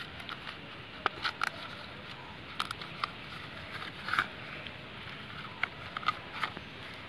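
Coconut-leaf spear being handled and worked by hand: scattered small clicks and crackles of the leaf, a few louder ones about a second in and near the middle.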